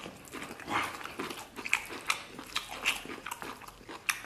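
Chewing and wet lip-smacking of a mouthful of stir-fried pork liver and rice, in irregular short bursts.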